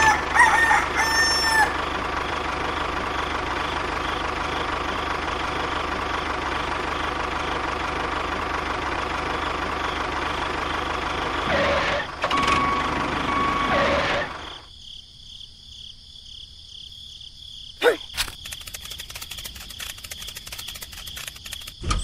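A rooster crowing, once right at the start and again about twelve seconds in, over a steady mechanical whir. The whir drops away about two-thirds of the way through, leaving a quieter background with a sharp click and fast faint ticking.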